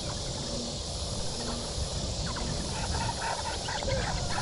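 Forest ambience: a steady high-pitched insect chorus, with short bird chirps coming in from about halfway through.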